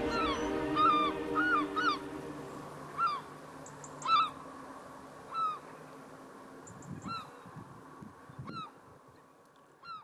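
A bird's short, arched call, repeated about once a second at first, then more widely spaced and growing fainter. Sustained music tones die away over the first two seconds or so.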